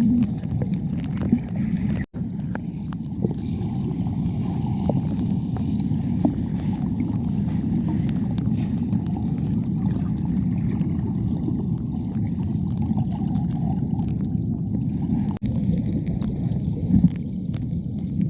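Steady, low, muffled rush of water at a rocky forest waterfall stream, with scattered small clicks and two momentary dropouts, about 2 and 15 seconds in.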